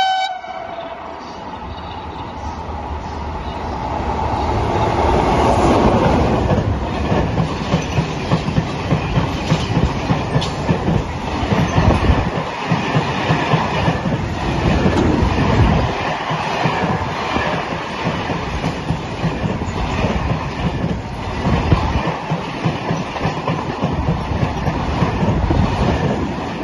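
Freight train of covered wagons passing through the station. The rumble builds over the first several seconds as the train approaches, then the wagons' wheels clatter over the rail joints in a steady clickety-clack.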